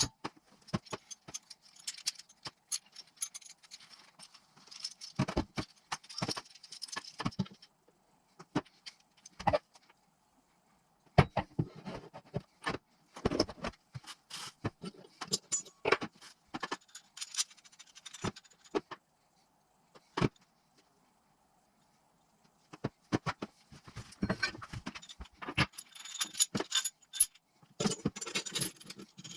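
Metal hand tools and engine parts clinking, jangling and rattling on a workbench as a Honda CBF 250 engine is put together, in irregular clusters of sharp clicks with two short pauses.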